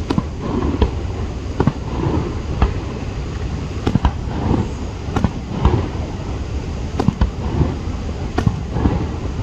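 Fireworks display: a quick irregular series of sharp aerial bangs, about one or two a second, over a steady low rumble.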